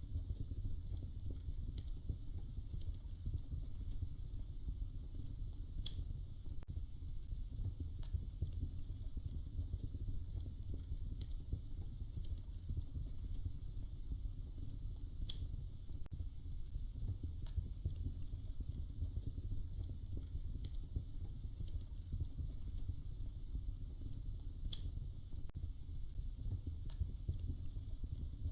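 Wood fire crackling in a fireplace: a steady low rumble of the flames with sharp pops and snaps at irregular intervals.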